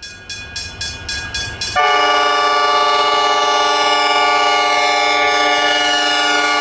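Train horn sounding a loud, sustained multi-tone chord that sags slightly in pitch near the end. For the first couple of seconds the sound is chopped into a rapid stutter of about four pulses a second, a deliberate glitch edit.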